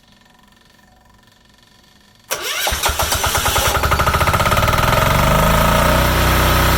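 Yanmar L100V single-cylinder diesel engine of a homemade generator starting about two seconds in: it catches at once with rapid chugging pulses and settles into a steady run.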